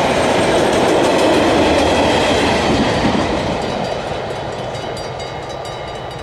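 A train running through a level crossing, its rumble fading from about three seconds in as the last car clears and moves off. The crossing's warning bell rings steadily throughout and stands out more as the train noise dies away.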